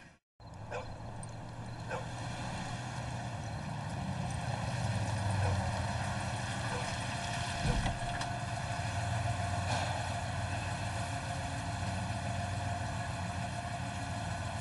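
SUV engine running steadily with a low drone, growing a little louder over the first few seconds. A single thump comes about eight seconds in.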